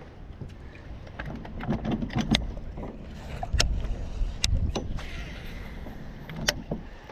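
Heavy wind buffeting the microphone in a steady low rumble, with scattered sharp clicks and knocks, the loudest about two and a half, three and a half, four and a half and six and a half seconds in.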